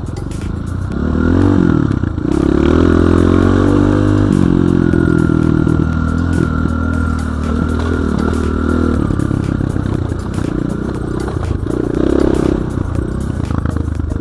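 BSE J1 enduro motorcycle engine riding off-road, with the revs rising and falling several times, and the rattle and clatter of the bike over rough ground.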